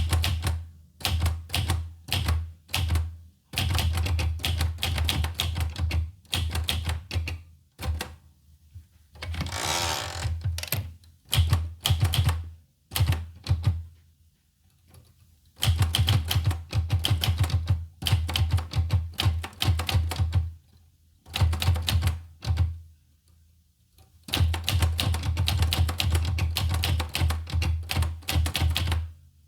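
Olivetti Lettera 25 portable manual typewriter being typed on: runs of rapid key strikes separated by short pauses, with a brief longer rasping sound about ten seconds in.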